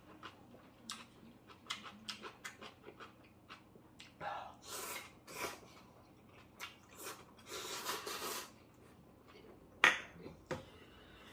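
Eating ramyeon: chopsticks and spoon clicking against a bowl, two long slurps of noodles in the middle, and one sharp clink near the end.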